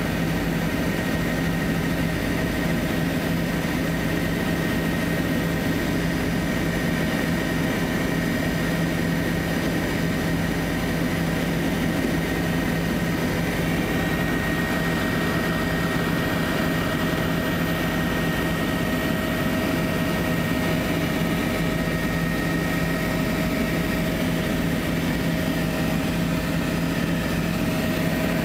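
Helicopter in flight heard from inside the cabin: a steady engine and rotor noise with a constant high whine over it.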